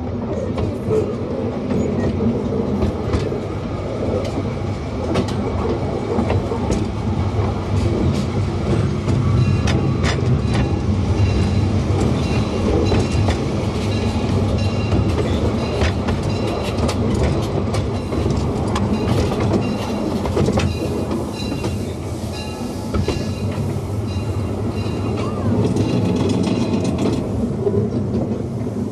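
Small steam train running along the track: a steady rumble with many sharp clicks from the wheels passing over the rails.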